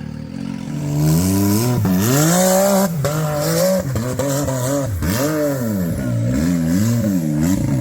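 Side-by-side UTV engine being revved up and down over and over, about seven surges, while it crawls over rocks. There are a few short sharp knocks among the revs.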